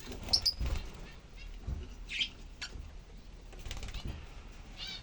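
Lovebirds giving short, high chirps about half a second in, at about two seconds and near the end, amid soft rustling and thumps.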